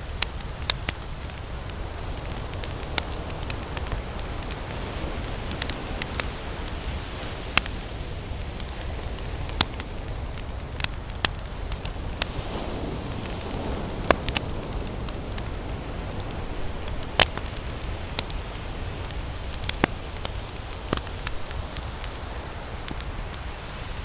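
Wood campfire crackling, with irregular sharp pops and snaps, one or two a second, over a steady low rumble.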